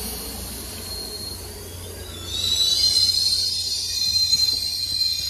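Caltrain bilevel passenger cars rolling slowly past at low speed with a steady low rumble. A little over two seconds in, a loud, high metallic squeal from the running gear starts, made of several pitches, and it holds on.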